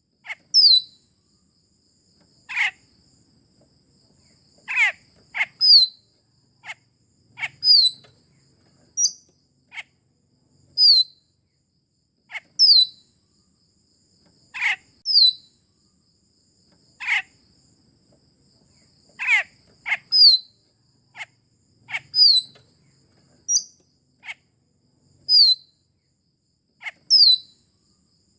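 Sulawesi myna lure call: short, sharp downward-sweeping calls repeated every second or two, some high and thin, others lower. A steady high insect drone runs underneath.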